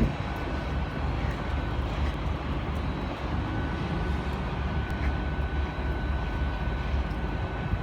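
Steady low rumble of a Class 802 IET bi-mode train standing at the platform with its underfloor diesel engines idling, with a thin steady whine above it.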